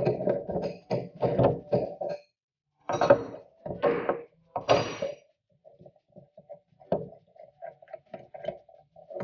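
Metal spanners clinking, knocking and scraping on steel fuel-line union nuts as the fuel accumulator's pipe fittings are worked loose. The sounds come in short irregular bursts, louder in the first half and fainter near the end.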